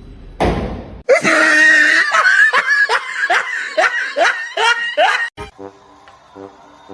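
Loud human laughter: a run of about nine quick 'ha' bursts, each falling in pitch, lasting about four seconds. A short whoosh comes just before it, and faint music follows.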